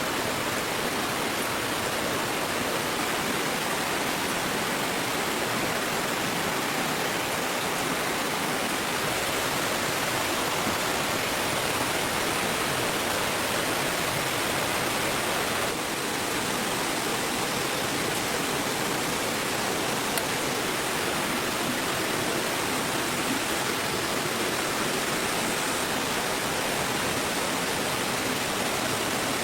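Steady rushing noise with no distinct events, with a slight change in its tone about halfway through.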